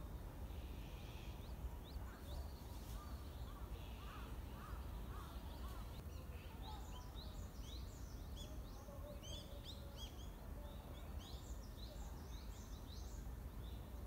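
Small birds calling in the trees: a few lower notes in the first few seconds, then a busy run of high, quick chirps through the second half, over a steady low rumble.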